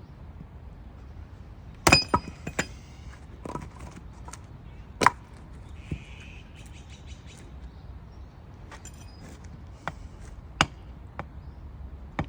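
Hatchet blows chopping and splitting firewood: a quick cluster of three sharp strikes about two seconds in, a hard single blow about five seconds in and another near the end, with lighter taps between.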